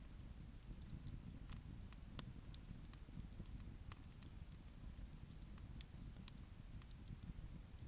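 Wood campfire crackling: scattered sharp pops and snaps at irregular intervals over a faint low rumble.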